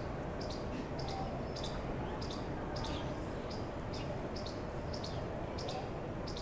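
A bird chirping over and over: short, high chirps at an even pace of about two a second, over low steady background noise.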